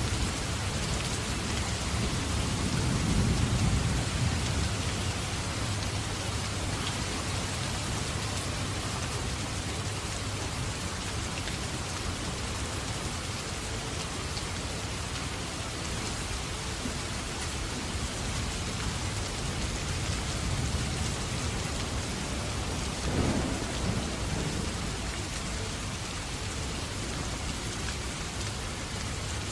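Steady rain falling, with a low rumble swelling about three seconds in and again, more briefly, about three-quarters of the way through.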